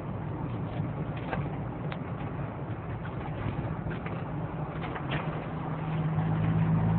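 Honda Integra Type R DC2's B18C6 four-cylinder engine running at a steady cruise, with tyre and road noise. The engine note holds one pitch and grows louder about six seconds in. A few faint ticks sound over it.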